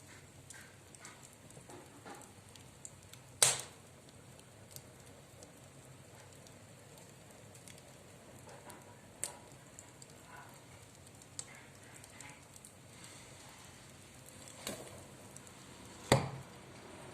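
Wood fire crackling in a stove-fireplace: a low steady background with scattered sharp pops, a loud one about three and a half seconds in and another near the end.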